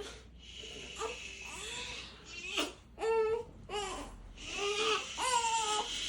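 Newborn baby crying and fussing in a string of short, repeated cries with brief pauses for breath, some cries rising in pitch.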